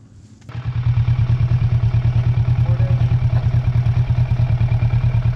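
Motorcycle engine starting about half a second in, then idling steadily with a rapid, even low pulse.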